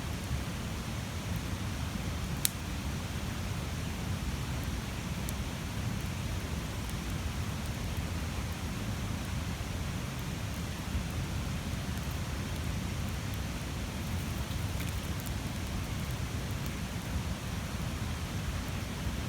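Large wood bonfire burning: a steady low rumble of flames with sparse sharp crackles, one louder pop about two and a half seconds in.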